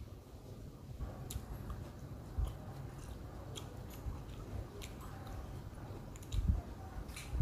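Someone chewing and biting mango slices: soft mouth sounds with scattered small clicks and a few dull low thumps.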